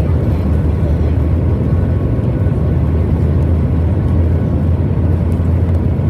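Steady, loud low rumble heard inside the cabin of a Boeing 737 MAX 8 airliner, the drone of its engines and airflow.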